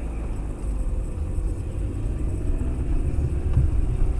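Car engine running just after starting on a newly replaced battery, a steady low rumble.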